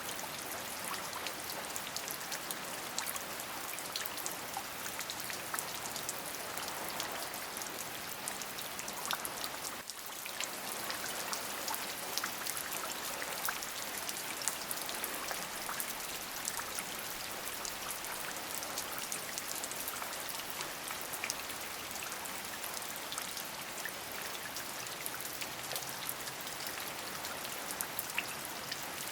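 Steady rain: a constant hiss with many separate drop hits heard as small ticks. The level dips briefly about ten seconds in.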